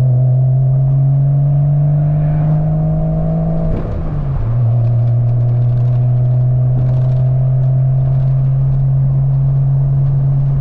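1997 Porsche 986 Boxster's 2.5-litre flat-six through an inexpensive aftermarket cat-back exhaust, pulling in gear with its pitch rising slowly, dropping at an upshift about four seconds in, then running steady with some drone. A light rattle from a loose clip-on camera mount ticks underneath.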